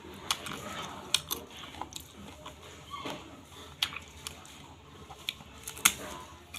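A person chewing and biting food, with irregular sharp crunches and clicks a few times a second apart.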